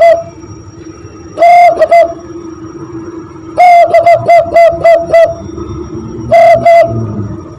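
Zebra dove (perkutut) call imitated by blowing into cupped hands: three cooing phrases, each a held opening note followed by a quick run of short, rhythmic coos. The longest phrase comes in the middle.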